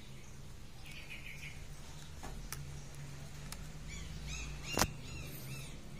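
Small birds chirping in quick falling notes, about a second in and again near the end, over a steady low hum. A few sharp clicks, the loudest just before five seconds in.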